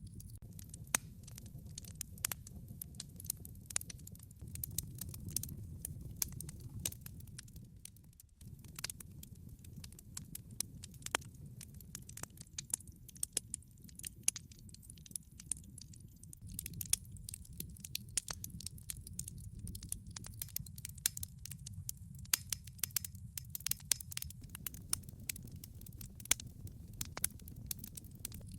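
Log fire crackling: a steady low rush of burning wood with frequent sharp, irregular pops and snaps. The sound dips for a moment about eight seconds in.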